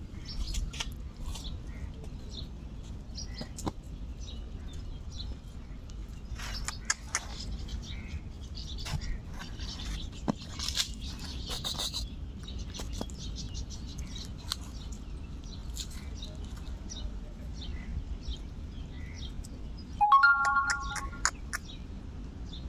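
Small birds chirping in short, scattered high calls over a steady low background rumble. About twenty seconds in, a loud, flat high tone with overtones sounds for about a second.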